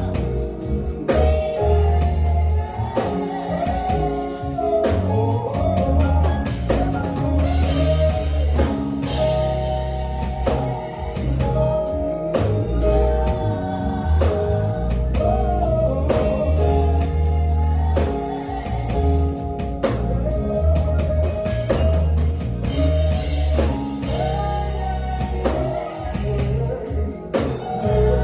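Gospel song performed live: a singer's voice with bending, ornamented runs over a band with bass and drums.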